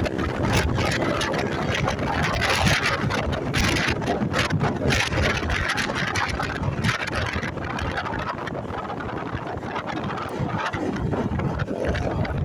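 Motorcycle engine running while riding, with wind buffeting and rushing over the microphone.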